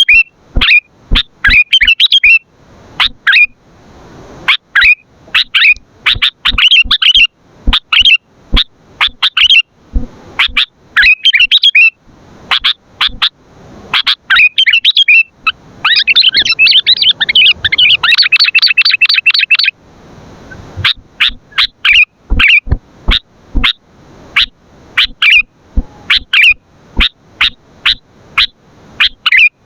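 Sooty-headed bulbul (kutilang) calling loudly: short sharp chirps and bubbly whistled phrases repeated over and over, with a fast, dense run of chatter in the middle.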